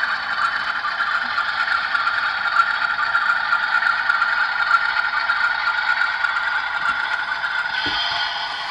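Intermountain ES44AC model locomotive running in reverse along the track, a steady whirring, rattling running sound with the decoder's diesel sound mixed in; it changes a little near the end.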